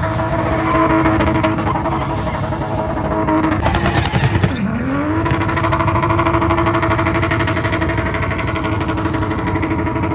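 Car engine held at high revs, the revs dropping sharply about four and a half seconds in and climbing straight back up, then held steady again.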